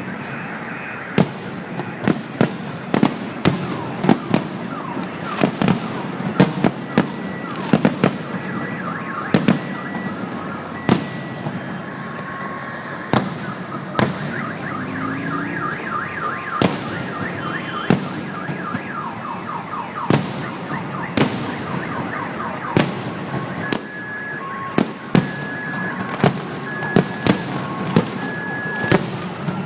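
Fireworks display going off: dozens of sharp bangs at irregular intervals, with repeating beeping and warbling alarm-like tones underneath.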